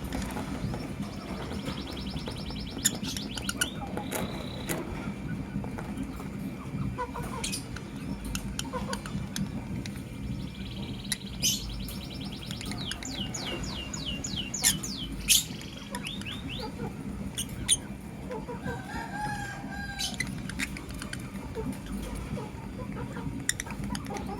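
Lovebirds chirping: sharp, high chirps scattered throughout, with a quick run of repeated chirps about halfway through, over a steady low background hum.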